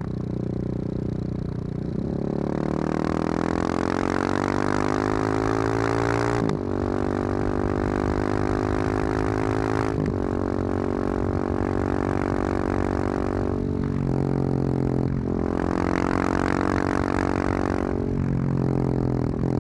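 Husqvarna 701's single-cylinder engine through a loud Wings aftermarket exhaust, pulling up through the gears in several long rising climbs in pitch, with short breaks at the gear changes and a couple of drops in revs.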